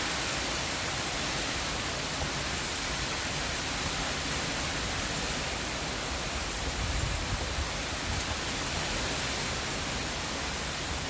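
Heavy rain falling steadily, a dense, even hiss, with a brief low rumble about seven seconds in.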